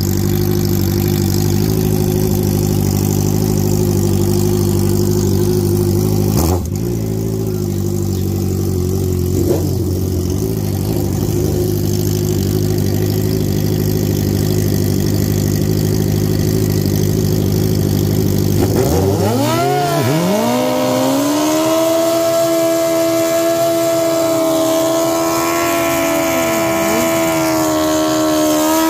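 Drag-racing sport motorcycle engines idling steadily, with a single knock about six seconds in. About two-thirds of the way through an engine is revved sharply and held at high rpm, as a bike is held on the throttle at the starting line.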